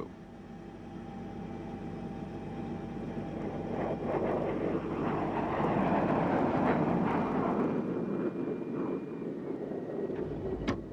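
Aircraft engine and rotor noise, a steady drone that grows louder over the first few seconds, then eases off slightly.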